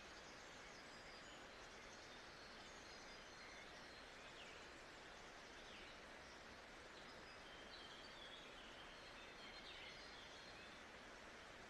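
Faint nature ambience: a steady background hiss with small birds chirping here and there, high and brief.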